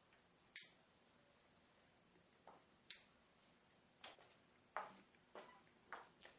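Faint, irregular clicks and knocks, about eight in all, as photo lighting gear is handled and set up.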